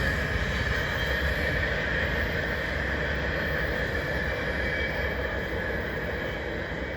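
Container stack train's cars rolling along the rails, a steady rumble and wheel-on-rail noise that slowly fades as the train moves away.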